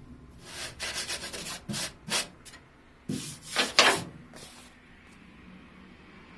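Sandpaper rubbed over car bodywork in a run of short, uneven strokes, the loudest pair about halfway through, then stopping.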